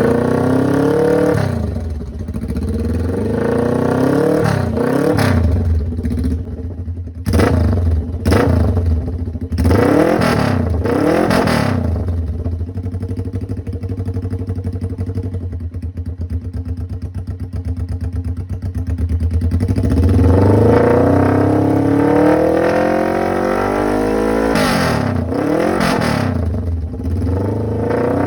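Suzuki GS400's parallel-twin engine running loud on straight pipes, revved in a series of quick blips, then settling to a steady idle for several seconds before being revved up and down again.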